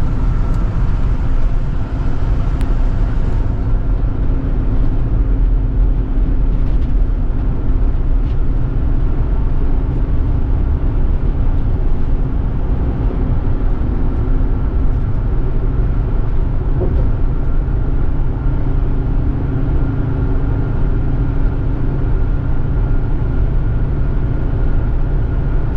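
Steady road noise inside a moving car: a loud, even low rumble of tyres and engine, with a faint steady hum over it.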